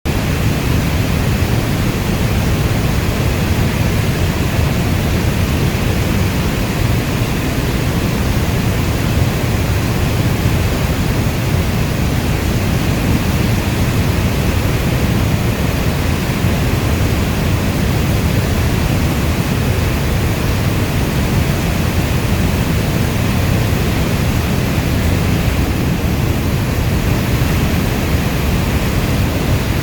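Steady rainfall: a dense, even hiss with a strong deep rumble underneath, unchanging, with no thunder or separate drops standing out.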